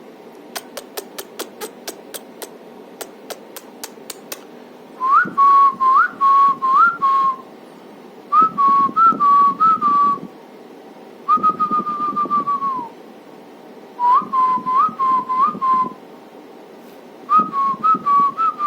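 A quick run of sharp clicks, then whistling in five short bursts of repeated notes, each with a quick upward flick; one burst is a single long held note that dips at its end.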